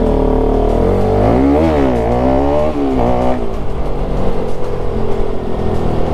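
Motorcycle engine under way, its pitch rising and falling several times as it is revved and shifted, then running at a steady pitch for the second half.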